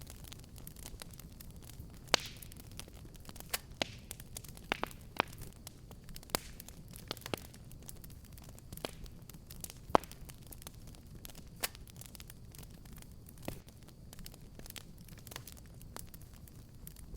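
Wood fire in a fireplace crackling, with irregular sharp pops and snaps over a steady low rumble of burning, the loudest pops about two seconds in and about ten seconds in.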